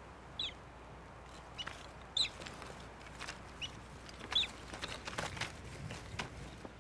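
A bird giving short, sharp calls that drop in pitch, about six in all over a faint background hush. Soft footsteps near the end.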